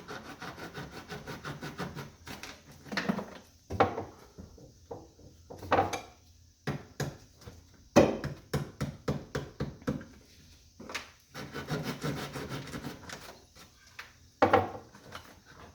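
Hand tool rasping back and forth in quick rhythmic strokes, about four or five a second, in several runs broken by scattered knocks, like a saw or scraper working through wood or wallboard.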